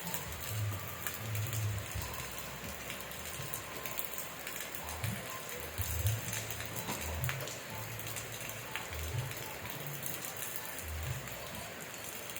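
Steady rain falling, with many individual drops ticking through the hiss, and low rumbles coming and going underneath.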